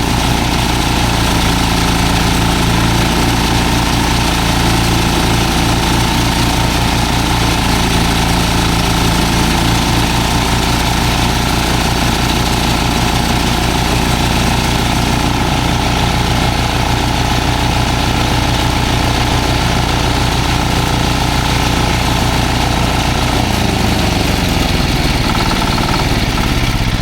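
Engine of a belt-driven farm machine running steadily with a fast, even beat; near the end its pitch falls as it slows down.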